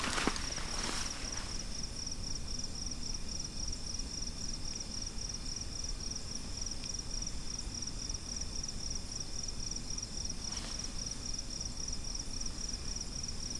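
Crickets chirping in a steady, fast-pulsing high trill, with a few brief rustles in the first second and another faint one about ten and a half seconds in.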